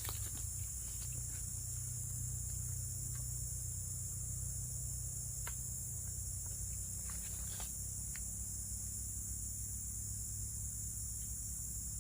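A steady, high-pitched chorus of forest insects chirring without a break, over a low steady rumble, with a few faint clicks or snaps.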